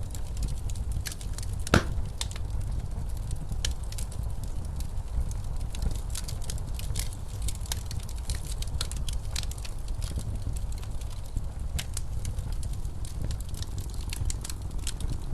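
Wood fire crackling in a fireplace, with frequent sharp snaps and one loud pop about two seconds in. Under it runs the steady low rumble of snowstorm wind.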